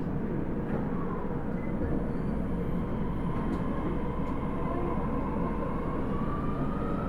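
Osaka Metro 30000 series subway train running, with a steady rumble of wheels on rail. The whine of its Hitachi SiC-VVVF inverter and traction motors rises steadily in pitch over the second half as the train picks up speed.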